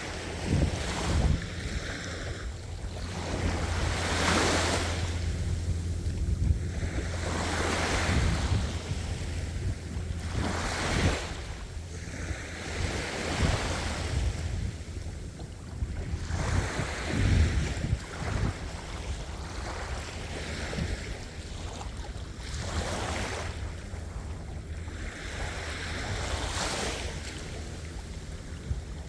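Ocean waves breaking and washing on the shore, one surge every two to four seconds, over a steady low rumble of wind on the microphone.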